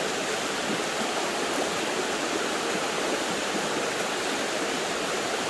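Flowing creek water: a steady, even rush with nothing else standing out.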